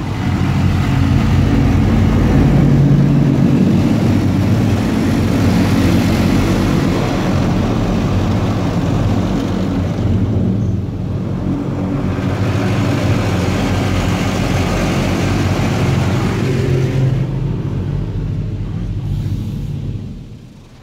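High-pressure rinse jets of a touchless automatic car wash blasting water against a minivan's body, heard from inside the cabin as a loud rush of spray over a low rumble that vibrates the van. It eases briefly about ten seconds in as the spray passes, builds again, then fades near the end.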